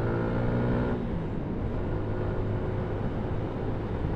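Yamaha MT-125's single-cylinder four-stroke engine running steadily under the rider, with wind and road noise. About a second in, the engine note drops back and the wind and tyre noise take over.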